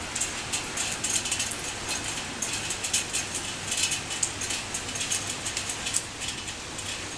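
Torrential rain pouring down: a steady hiss with many sharp, irregular drop impacts close by.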